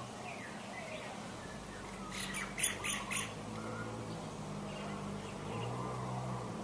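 Birds calling: faint short calls that slide up and down in pitch, then about two seconds in a quick run of four harsh squawks, the loudest part.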